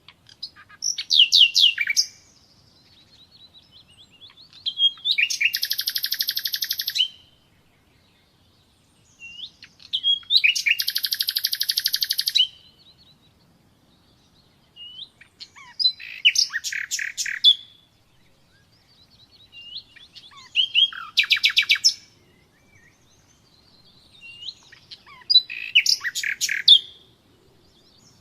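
Nightingale singing: six separate phrases of fast repeated notes and rapid trills, each one to three seconds long, with pauses of a few seconds between them.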